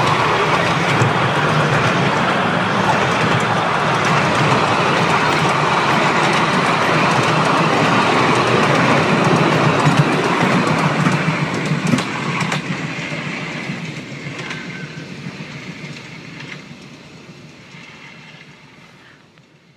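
Miniature railway passenger carriages rolling past on the track, their wheels rattling. Just past halfway a few sharp clicks come from wheels over rail joints. Then the sound fades steadily as the train moves away.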